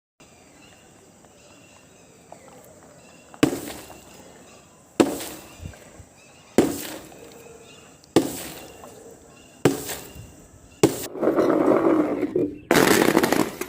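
A series of sharp cracking impacts, six of them about a second and a half apart, each dying away quickly, as objects are smashed or crushed; near the end comes a longer rough crunching noise and then one more loud burst.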